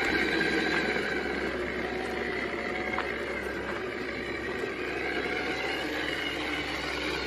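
Brushed electric motor salvaged from a pressure washer, running on 24 V DC and driving a small tricycle, giving a steady whine of several held tones over a rushing noise.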